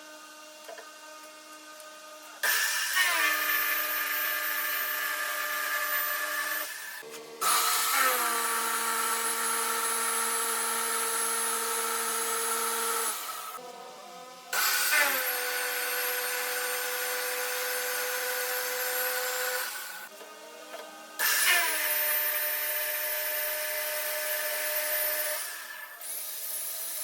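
Electric power tool, such as a drill, run four times in bursts of four to six seconds each with short pauses between. Each run is a steady motor whine whose pitch settles a little lower just after it starts.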